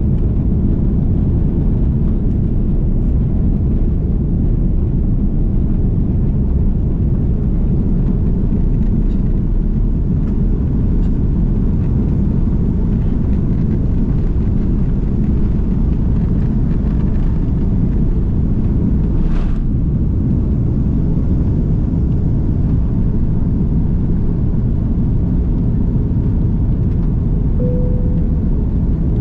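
Airbus A330-300 cabin noise from a window seat: a steady, loud, deep rumble of the jet engines and airflow. It is broken once by a brief click and, near the end, by a short tone.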